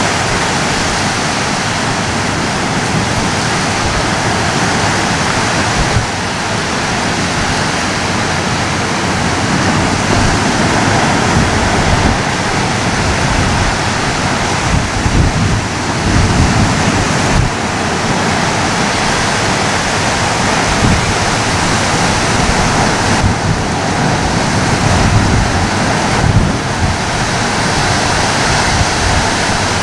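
Ocean surf: a continuous, steady wash of breaking waves, with small swells in level but no distinct individual crashes.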